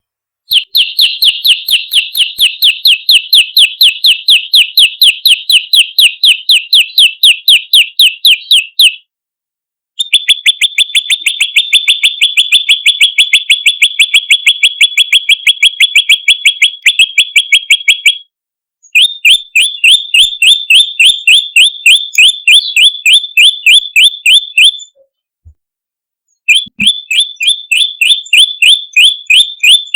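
Prenjak lumut, a small Indonesian songbird, calling in long, rapid runs of sharp, even chirps, about five or six a second, broken by three short pauses. It is a loud, repeated lure call of the kind used to draw in other prenjak.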